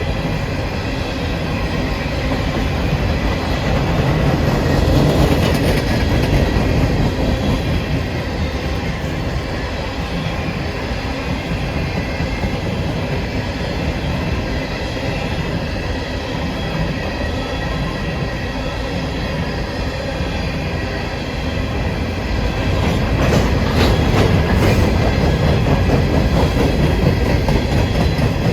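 A train's cars rolling steadily past, with a continuous rumble of wheels on rail and clickety-clack over the rail joints. The sound swells twice, and a run of sharp clicks comes near the end.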